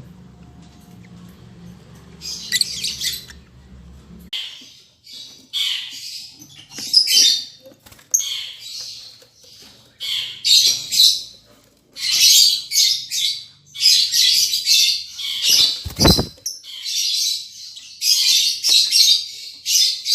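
Lovebirds giving harsh, screechy calls in repeated bursts. The calls start about two seconds in and run almost without a break through the second half. A low hum stops about four seconds in, and there is a short low bump about three-quarters of the way through.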